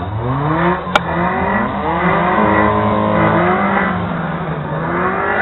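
A car engine revving: the pitch climbs over the first second and a half, holds with small dips, and rises again near the end. A single sharp click comes about a second in.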